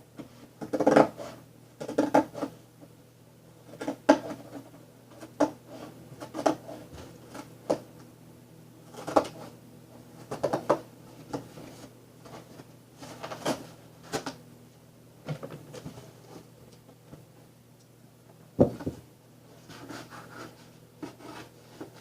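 Cardboard being worked by hand: irregular crunching scrapes and knocks, roughly one a second, over the steady low hum of a window fan.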